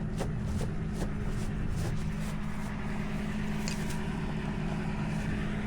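Tow truck engine idling steadily, a constant low hum, with a few faint light clicks over it.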